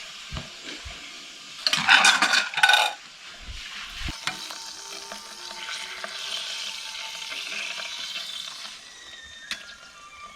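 Beef steak sizzling, with a loud, brief clatter of dishes or utensils about two seconds in.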